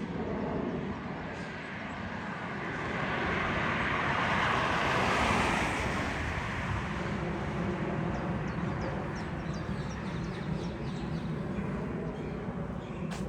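A vehicle passing on the street: its noise swells over a few seconds, peaks about five seconds in, and eases away, over a steady low traffic hum.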